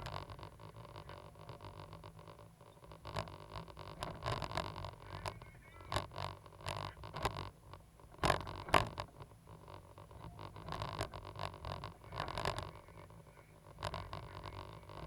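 Caterpillar 320 GC hydraulic excavator at work: a steady low engine drone with repeated louder surges every second or two, and a few sharp knocks, the loudest about eight and a half seconds in.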